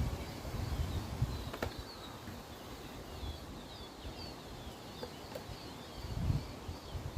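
A flock of five-week-old game bird poults peeping: many short, high calls overlapping. A low rumble comes at the start and again near the end.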